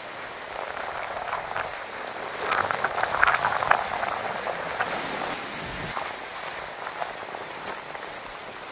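Heavy typhoon rain pattering and splashing on surfaces, with many scattered drip ticks. It swells louder for a second or so near the middle, then eases back.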